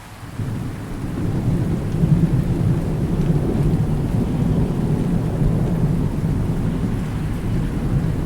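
Thunder rumbling low and long over steady rain. The rumble swells about a second in and rolls on without letting up.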